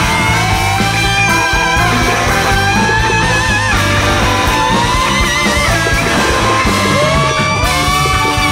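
Loud live music from a large free-jazz big band, with several wavering melodic lines over a dense drum and bass groove.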